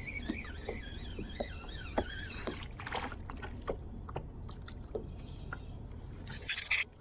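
Kayak on the water: a steady low rumble with irregular small knocks and water sounds against the hull, and a short loud splash just before the end. A wavering whistle-like tone warbles through the first couple of seconds and then stops.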